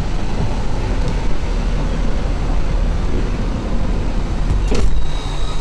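Chevrolet Express G30 box truck's engine running at a steady idle, a low rumble, with one short knock near the end.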